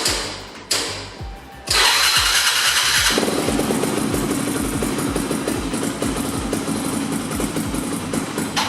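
Two sharp knocks, then a dirt bike engine starts a little under two seconds in and settles into a steady idle.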